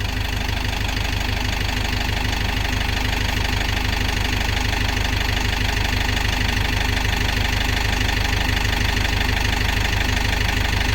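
A vehicle engine idling steadily with an even low throb.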